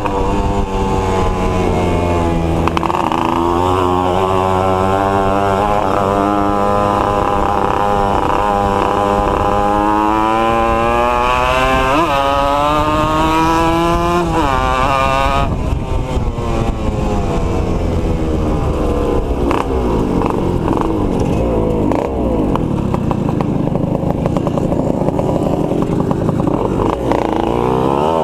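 Two-stroke motorcycle engines running under way, their pitch rising and falling as they rev up and shift through the gears, with more than one engine heard at once. The sound changes abruptly about halfway through.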